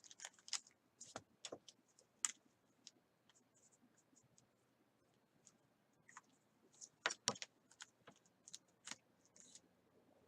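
Faint, scattered computer keyboard keystrokes and clicks, irregular, with a short cluster of louder taps about seven seconds in.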